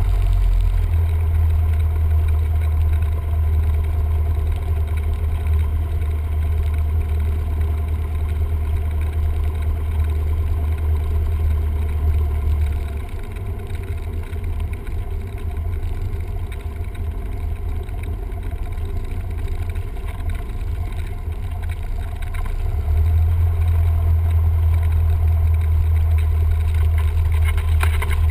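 Cessna 172M's four-cylinder Lycoming engine and propeller running steadily, heard from the cockpit as a deep drone. The power eases off about halfway through, then comes back up a few seconds before the end.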